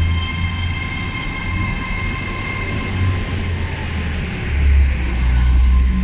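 Class 800 train pulling out, with a high electric whine that rises and then falls over steady whining tones and a low rumble that swells near the end.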